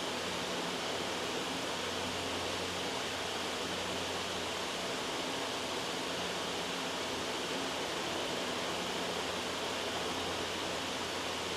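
Steady, even white-noise hiss, with a faint low hum beneath it.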